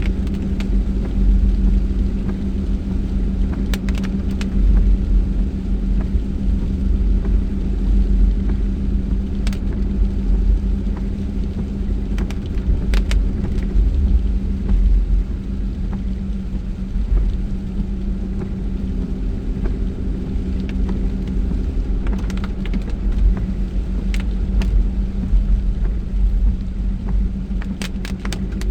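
A car driving on the road, heard from inside the cabin: a steady low rumble with an even drone, and a few short clicks scattered through it.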